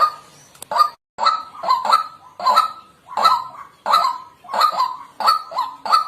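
White-breasted waterhen calling over and over, about one and a half calls a second, many of them split into two quick notes. The sound cuts out completely for a moment about a second in.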